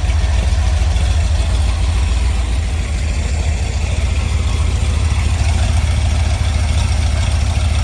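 Carbureted 4.0-litre Rover V8 idling steadily and evenly, in good running order.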